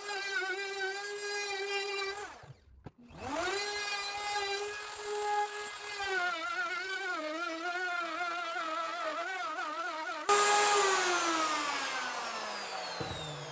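Router with a flush-trim bit running at a high steady whine, its pitch wavering as the bit cuts along plywood edges. The sound breaks off briefly about two and a half seconds in, then comes back. Near the end the router is switched off and its whine falls steadily in pitch as the motor spins down.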